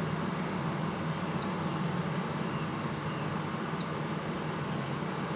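A steady low hum, with a few brief high chirps about a second in, near four seconds in, and near the end.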